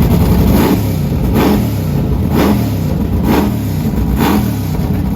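Car engine revving in short blips, about one a second, over a loud running engine.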